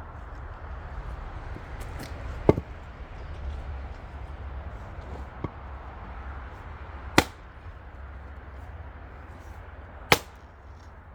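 Heavy axe chopping black locust firewood: three sharp, loud strikes a few seconds apart, with a lighter knock between the first two.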